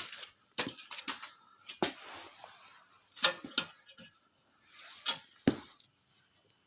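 A series of irregular knocks and clicks of things being handled, with light rustling between them; they stop about five and a half seconds in.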